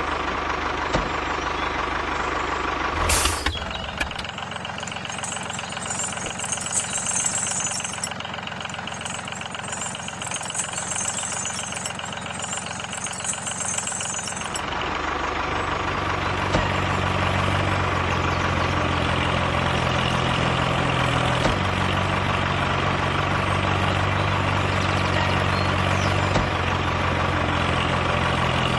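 Engine-like steady running of a mini construction machine. About three seconds in there is a brief louder burst, and about halfway through a deeper, louder hum sets in and holds steady.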